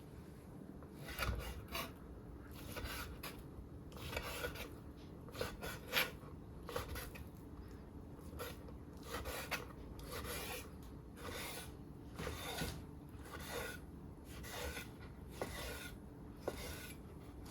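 Bitter gourd being worked by hand in food preparation: a series of short rasping, rubbing strokes, roughly one a second and unevenly spaced.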